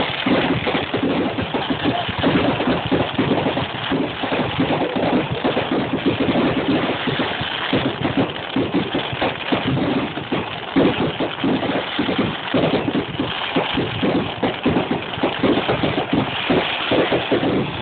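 Fireworks display going off in a dense, continuous run of overlapping bangs and crackles. Heard through a phone's microphone, which makes it sound dull and rumbly.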